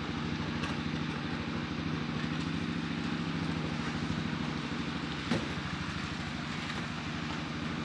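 A vehicle engine idling steadily, with a short rising squeak a little past halfway.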